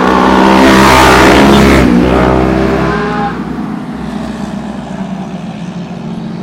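A motorcycle engine passing close by under acceleration. It is loudest about a second in, drops in pitch as it goes past, and fades after about three seconds.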